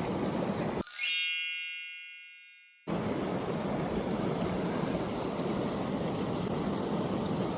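A bright chime sound effect rings out about a second in and fades away over about two seconds, with all background sound cut out under it. Before and after it, a steady rushing noise of flowing river water continues.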